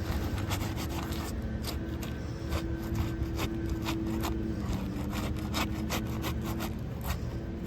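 Irregular rubbing and scraping with scattered clicks, over a steady low hum.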